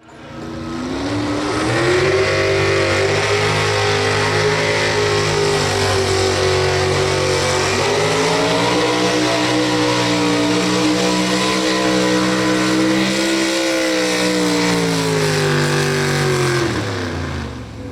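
Pro Stock 4x4 pulling truck's engine running at high revs under load through a pull, loud and steady. The revs sag and climb again about eight seconds in, then fall away steeply near the end as the run finishes.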